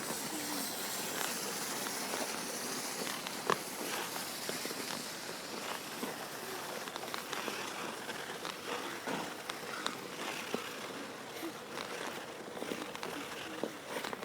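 Ice skate blades gliding over pond ice: a steady hiss of blades on ice, with scattered clicks and scrapes.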